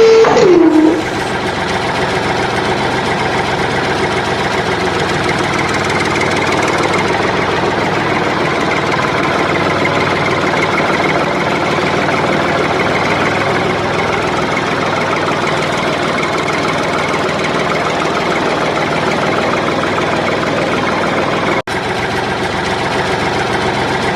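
An engine or motor running steadily at an even pace, like a small tractor idling. It drops out for an instant near the end.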